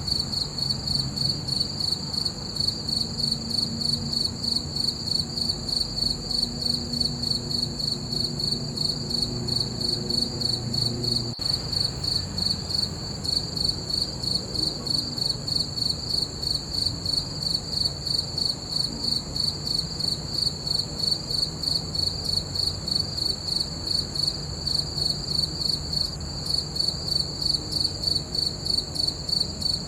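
Crickets chirping in a steady, even rhythm of about two to three high-pitched pulses a second.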